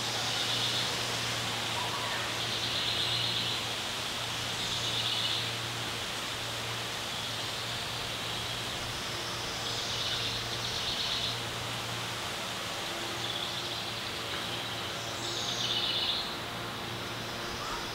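Outdoor lakeshore ambience: a steady low hum and rush of background noise, with short high buzzy bird songs about a second long, five times, the loudest near the end.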